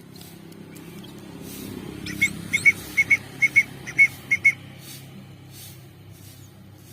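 A young songbird chirping sharply while it is hand-fed, about ten short, high chirps in quick pairs between about two and four and a half seconds in, over a steady low hum.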